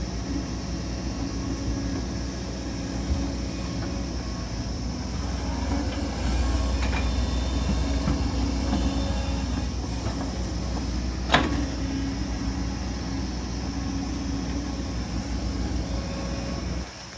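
Excavator's diesel engine running steadily at work, a little louder from about six seconds in, with one sharp metallic clank about eleven seconds in.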